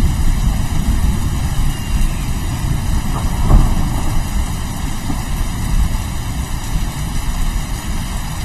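Steady rain with low, continuous thunder rumbling, swelling to a louder peak about three and a half seconds in.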